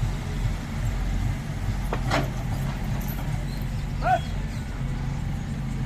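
A JCB 3DX backhoe loader's diesel engine running steadily with a low hum. There is a short sharp noise about two seconds in and a brief high squeak about four seconds in.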